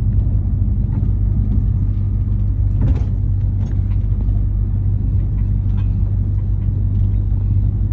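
Truck engine and road noise heard from inside the cab while driving: a steady low drone, with a single short click about three seconds in.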